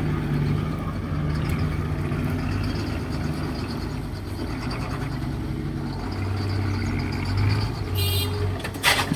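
Heavy diesel engines of an excavator and a dump truck running, with the engine note rising and falling. A brief high squeal comes near the end, followed by a sharp knock.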